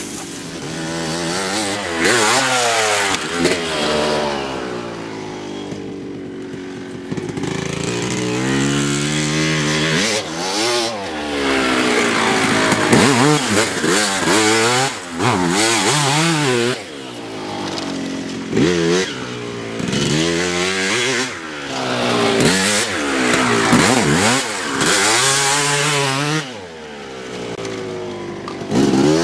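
Two-stroke motocross bike engine revving hard around a track, its pitch climbing and dropping again many times as the rider accelerates, shifts and backs off, growing louder and fainter as it moves closer and away.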